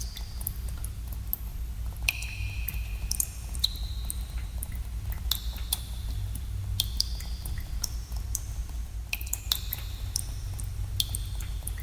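Water drops falling into pools in a cave, irregular plinks several a second, many ringing as short pitched tones that fall slightly, over a steady low rumble.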